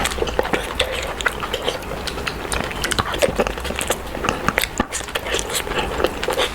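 Close-miked eating sounds: biting and chewing food, with many irregular sharp crackles and wet mouth clicks.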